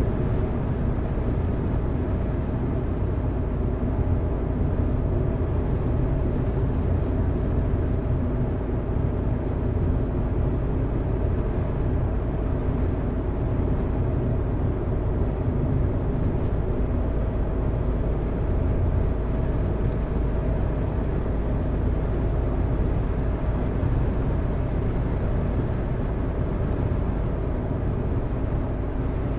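Car driving along at a steady speed: continuous engine and tyre-on-road noise, low and even, with no change throughout.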